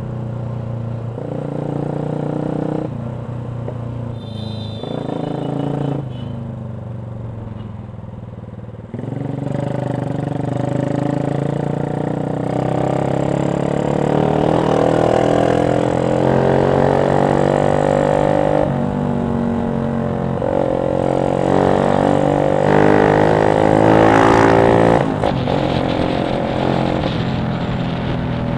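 Yamaha Jupiter MX 135's single-cylinder four-stroke engine through a CLD X Monster aftermarket racing exhaust, pulling through the gears: the exhaust note climbs in pitch and drops back several times, louder from about nine seconds in.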